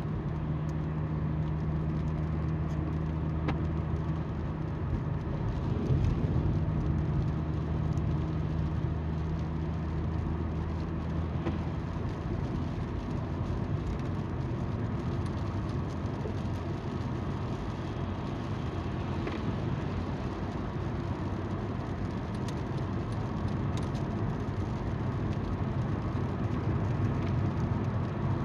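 Car driving along a road: steady tyre noise on the road with the low hum of the engine.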